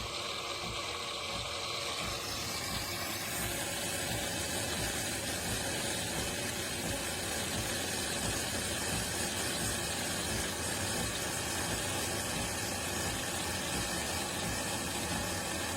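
De'Longhi Rivelia automatic espresso machine running steadily mid-drink: a continuous pump and motor hum with hiss, which grows brighter about three seconds in.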